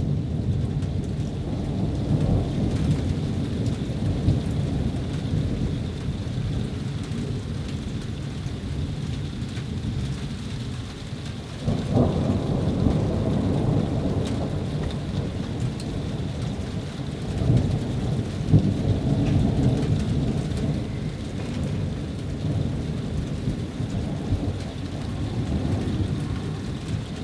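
Thunder rumbling continuously as a thunderstorm passes, with steady rain underneath. A sharper clap breaks in about halfway through and rolls on, and another swell of rumbling comes a few seconds later.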